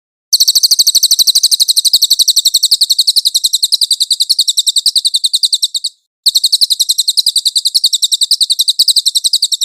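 A songbird's rapid rolling trill ('ngeroll' song): high notes repeated evenly at about a dozen a second. It comes in two long phrases, with a short break a little past the middle.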